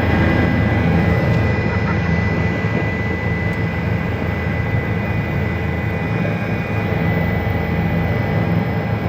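Helicopter turbine and rotor running steadily, a high whine over a dense low throb.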